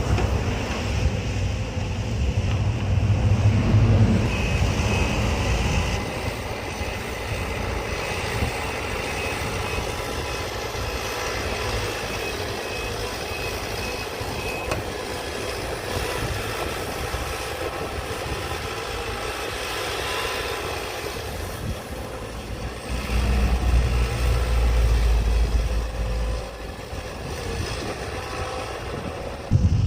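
A large engine running steadily, with louder low rumbling surges in the first few seconds and again about three-quarters of the way through.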